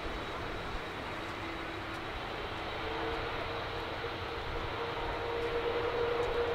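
GE90 turbofan engines of a Boeing 777-300ER running at high power for takeoff: a steady jet roar with a faint whine that climbs slowly in pitch, the whole growing gradually louder.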